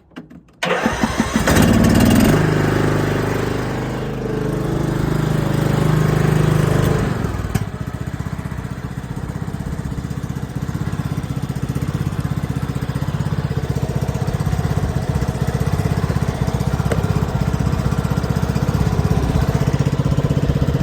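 Riding lawn mower's engine started off a jump pack: a brief crank, then it catches and runs loud and fast for several seconds, settling about seven seconds in to a steadier, lower running speed with an even pulse.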